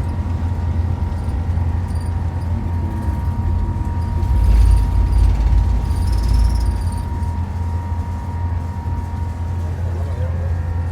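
Jet airliner's engines heard from inside the passenger cabin during takeoff: a steady low rumble with a thin whine running through it. A heavier, deeper rumble swells for a few seconds near the middle.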